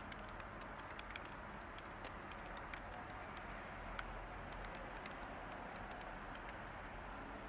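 Light typing on a computer keyboard, irregular soft keystroke clicks over a steady background hiss of white noise.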